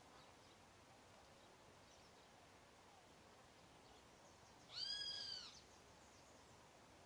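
A single bird call about five seconds in: one clear whistled note with overtones that rises and then falls, lasting under a second, over faint outdoor background.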